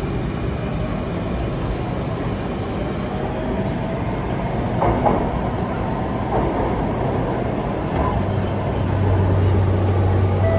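Circle Line MRT train running, heard from inside the carriage: a steady rumble with a faint motor whine rising in pitch a few seconds in, a few short knocks from the running gear near the middle, and a deeper hum that grows stronger near the end.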